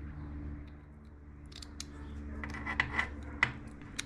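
Small metal parts of a scissor-style knurling tool scraping and clicking as a spring and part are worked into their seat by hand, with a few sharp clicks in the second half over a steady low hum.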